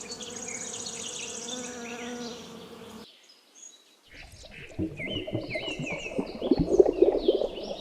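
A bee buzzing steadily, with birds chirping in the background; the buzz stops abruptly about three seconds in. After a second of near silence, birds chirp over a louder, rough crackling noise.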